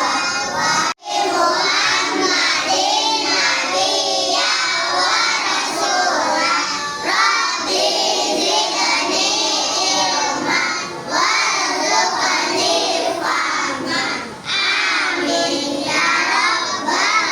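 Children's voices chanting a prayer together in a sing-song, with a brief cut-out of all sound about a second in.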